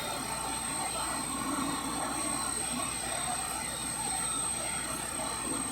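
Faint distant voices over a steady background hiss, with a thin high-pitched whine running through it.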